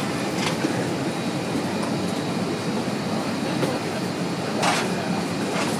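Steady rushing air noise inside an Airbus A321 cabin parked at the gate, with two brief hissing rustles, one about half a second in and a louder one near the end.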